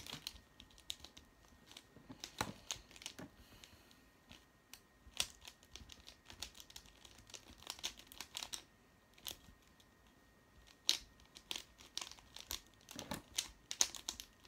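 A mirror cube being turned by hand: irregular clicking and clacking of its plastic layers, in quick bursts of turns separated by short pauses.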